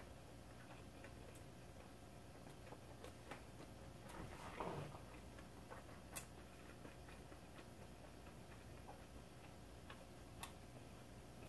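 Faint chewing with the mouth closed: scattered soft mouth clicks over quiet room hum. A brief louder mouth sound comes about four and a half seconds in, and sharp single clicks come near six and ten seconds.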